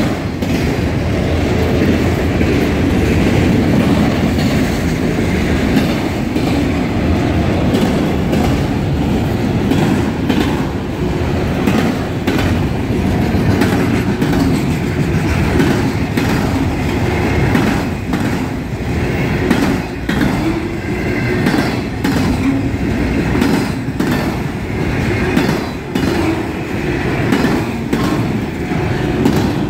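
Freight train of autorack cars rolling past: a steady loud rumble with the wheels clicking repeatedly over the rail joints.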